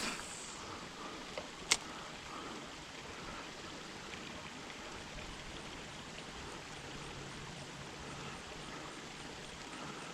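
Steady outdoor background hiss with two sharp clicks, one right at the start and one nearly two seconds in.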